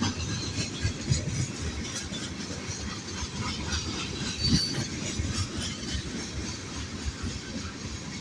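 Freight cars of a loaded manifest train rolling past, a steady rumble with irregular clanks and clacks from the wheels on the rails. A brief high squeal about four and a half seconds in.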